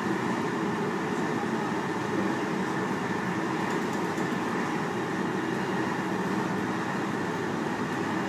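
Steady running noise heard from inside a JR Hokkaido 735 series electric multiple unit moving along the line: an even, unbroken rumble of the train on the rails.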